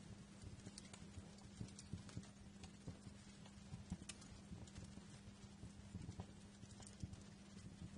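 Wood fire crackling in a fireplace: faint, irregular pops and snaps, several a second, over a low steady hum.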